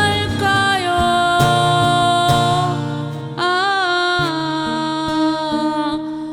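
A singer holding long notes of a slow Korean ballad over acoustic guitar accompaniment; a new sung phrase with vibrato starts about three and a half seconds in.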